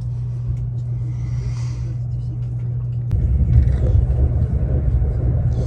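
Steady low rumble of a Sapsan high-speed electric train running, heard from inside the carriage. It gets louder and rougher after a sharp click about three seconds in.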